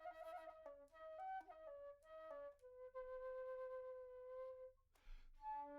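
Soft background music: a solo flute-like wind melody, trilling at first, then holding one long note, with a short break before the next phrase near the end.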